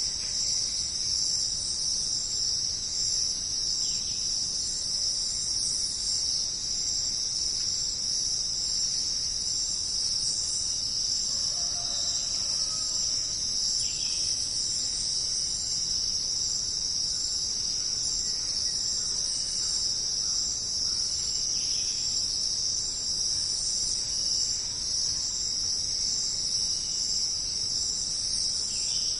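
A dense insect chorus of crickets or cicadas keeps up a continuous, high-pitched, unbroken trill. A few faint, brief calls sound over it now and then.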